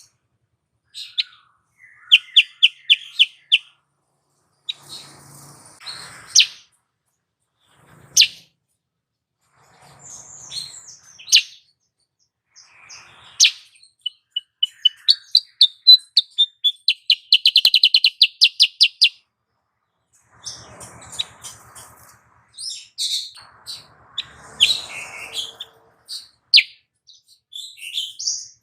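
Female kutilang sutra bulbul calling: a series of sharp chirps and quick, even trills of repeated high notes. There is a short trill about two seconds in and a longer, louder one a little past the middle.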